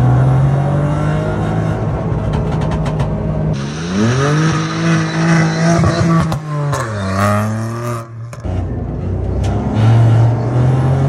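Modified Volkswagen Polo rally car's 1-litre three-cylinder TSI turbo engine pulling hard under acceleration, its note climbing steadily. About three and a half seconds in, the engine note rises, holds, then drops away as the car runs past. A steady, loud engine note returns near the end.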